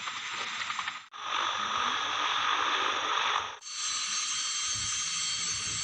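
Military helicopter turbines and rotors running, a steady rushing noise heard in three back-to-back clips that cut off abruptly about a second in and again past three and a half seconds. The last clip carries a steady high turbine whine.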